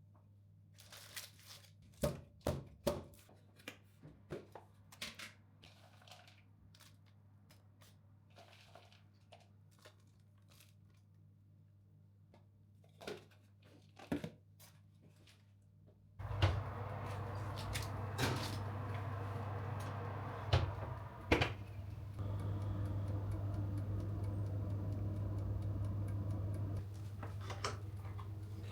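Kitchen handling sounds: scattered light clicks and knocks of objects being picked up and set down. About halfway through, a steady rushing noise with a low hum starts suddenly and keeps going.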